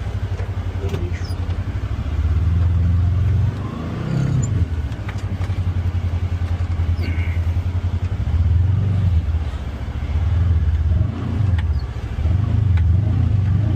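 Polaris Xpedition UTV engine running at low speed. Its note swells and eases several times as the throttle is worked, with scattered short clicks and knocks.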